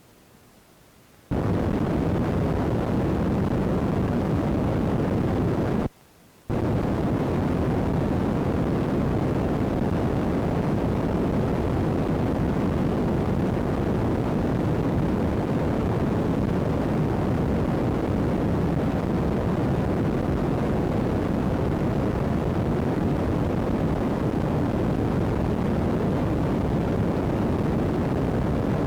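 Steady, loud rushing noise with no distinct events, switching on abruptly about a second in and cutting out for about half a second near six seconds in: noise from an iPod's faulty microphone rather than any sound of the storm.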